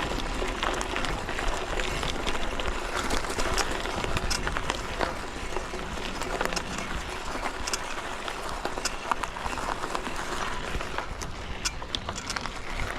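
Mountain bike being ridden along a woodland trail: a steady rush of tyre noise with frequent small clicks and rattles throughout.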